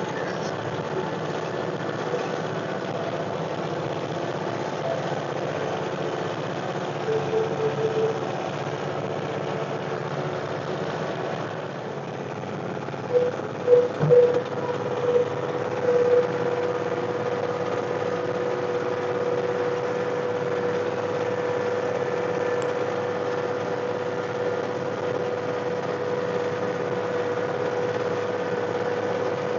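John Deere 1025R compact tractor's three-cylinder diesel engine running steadily under way, with a steady whine that grows stronger about halfway through. A few brief clunks come just before the whine takes over.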